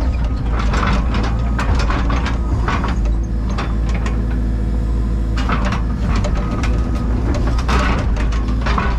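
Takeuchi TB285 compact excavator's diesel engine running steadily, with bursts of metallic clanking and rattling from the machine at work a few times.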